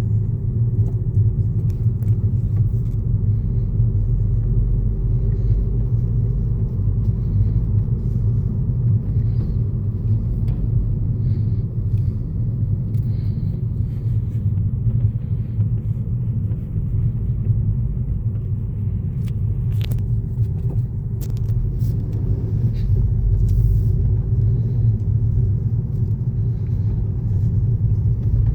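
2012 Volkswagen GTI on the move, its turbocharged 2.0-litre engine and road noise making a steady low rumble, with a few faint clicks.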